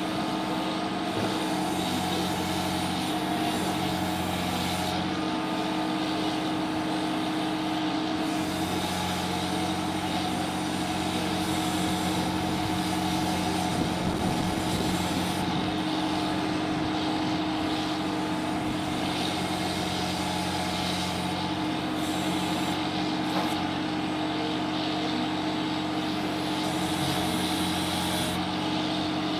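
A machine's motor or engine running steadily at constant speed: an even, unchanging hum.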